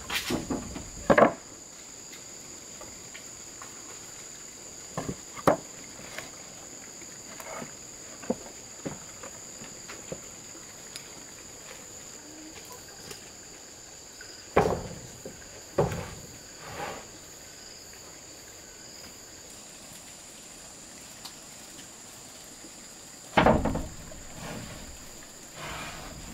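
Steady high-pitched insect buzzing, with scattered knocks and thuds of wood being handled or struck, several seconds apart.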